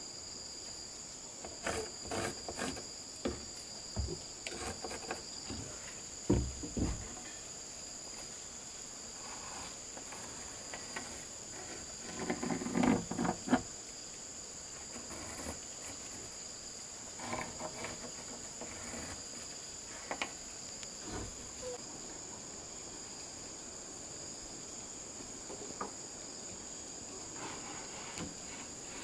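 Steady high-pitched chorus of crickets or other insects, with scattered knocks and clattering from work going on close by, the loudest cluster about halfway through.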